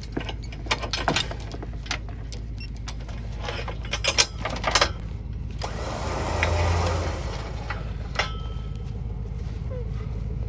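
Steel lifting chains clinking and clanking in two short clusters as they are handled and tightened on a crane hook, over a steady low hum. About six seconds in, a brief whirring rush swells and fades.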